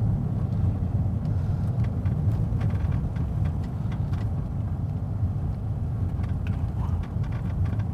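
Steady low rumble of a car in motion, engine and road noise heard from inside the cabin, with faint light ticks.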